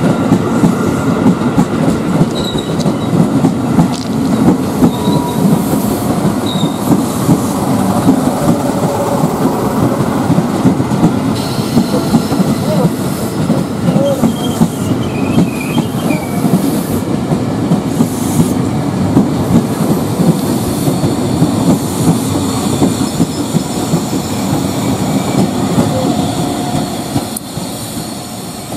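Tokyo Metro 6000-series electric commuter train rolling slowly past into the station, its wheels clattering on the rails, with a few brief high wheel squeals. The rumble drops off near the end.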